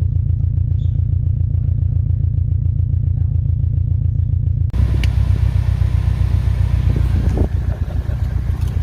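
2018 Subaru WRX STI's turbocharged flat-four engine idling through an Invidia R400 cat-back exhaust on a fresh Cobb Accessport tune, a steady low pulsing rumble. About halfway in the sound changes abruptly to a louder, rougher rumble with more hiss.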